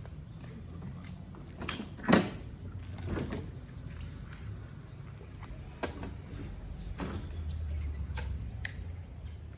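A few sharp knocks and clicks, the loudest about two seconds in, over a steady low hum.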